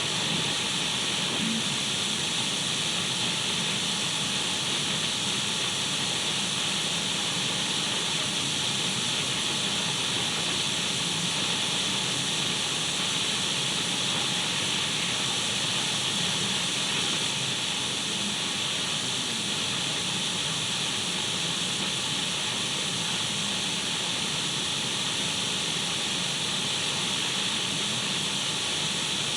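Radio static: the steady hiss of a radio tuned between stations, even and unbroken, brightest in the upper range.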